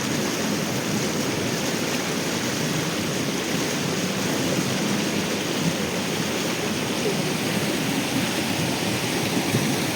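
Steady rushing of a river's flowing water, an even wash of noise.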